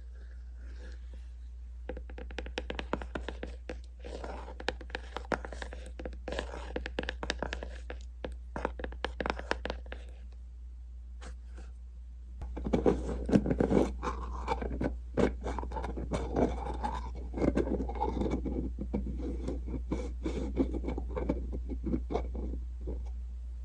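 Close-miked ASMR scraping and crackly rubbing sounds from handling skincare props. They come in two stretches: one from about two seconds to ten, and a louder, fuller one from about twelve seconds on.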